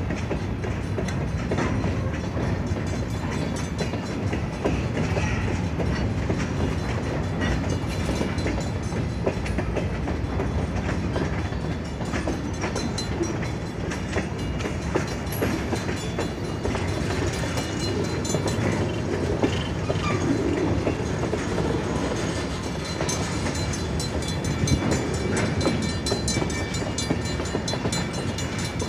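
Freight cars (covered hoppers, a tank car and bulkhead flatcars) rolling past over a grade crossing, a steady rumble of wheels with repeated clacks and knocks as they cross the rail joints.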